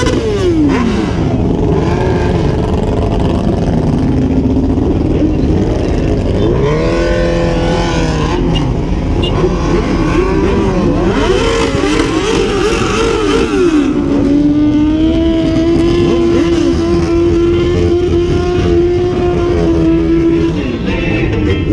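Several motor vehicle engines revving up and down at once, their pitches rising and falling over each other. In the second half, one engine is held at steady high revs for about six seconds.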